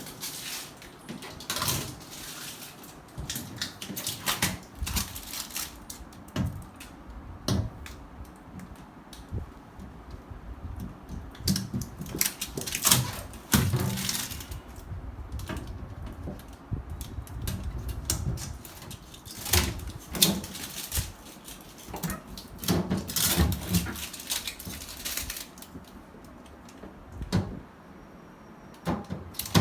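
Irregular knocks, clicks and clatters of objects being handled, scattered at uneven intervals with a few heavier thumps, and no steady machine sound beneath them.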